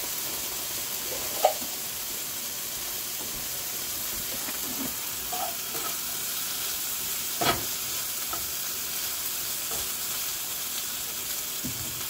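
Acorn squash, apples and freshly added green beans sizzling in oil in a skillet while being stirred, a steady frying hiss. Two sharp knocks of the utensil against the pan, about a second and a half in and again about seven and a half seconds in.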